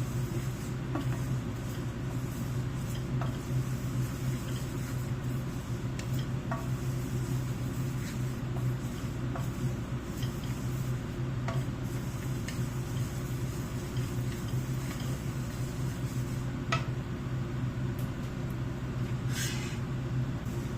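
Kitchen work: scattered light clinks and taps of utensils and dishes over a steady low hum.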